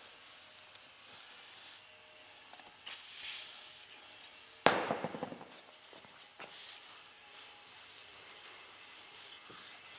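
A single sharp bang a little before halfway, trailing off in a short rattle, amid faint handling and scraping noises.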